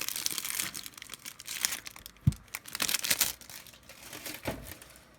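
Plastic trading-card wrapping crinkling and tearing as a pack is opened by hand, in irregular crackles, with a soft knock about two seconds in and another near the end.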